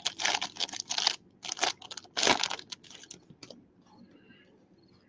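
Thin plastic penny sleeves crinkling and rustling as trading cards are handled and slid into them, in a quick run of crackly bursts that dies away about three and a half seconds in.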